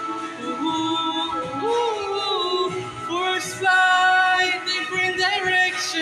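Music with a voice singing a wordless melody of held notes that glide between pitches.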